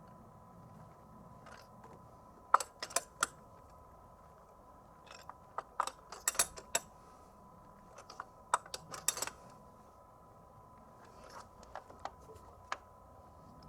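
Small metallic clicks and jingles in four short clusters, typical of car keys being handled at the ignition, over a faint steady high tone.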